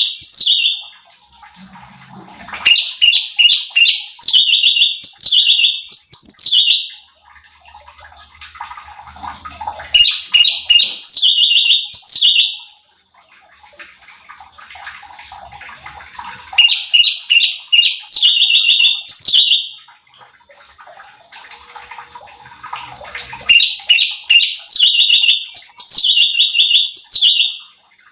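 Cucak cungkok songbird singing in four bouts of fast, high chattering notes mixed with short downward-sweeping whistles, each bout lasting three to four seconds, with pauses between them that hold a softer background noise.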